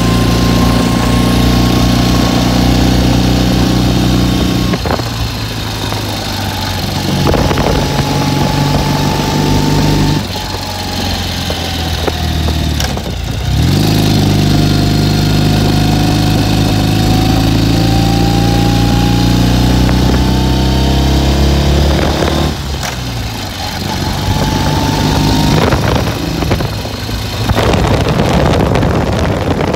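Ural motorcycle's air-cooled flat-twin engine running under way. Its note breaks off briefly several times and comes back at a new pitch, as the throttle is eased and gears change, with wind rushing over the microphone.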